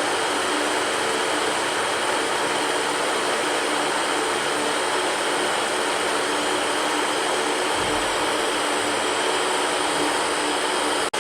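Electric fan running steadily: an even rushing hiss with a faint steady hum under it, cutting out for an instant at the very end.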